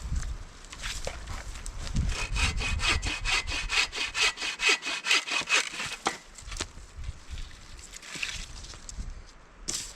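Firewood being cut by hand: a quick run of evenly spaced strokes through wood, strongest from about two to six seconds in, with fainter strokes before and after and a short sharp crack near the end.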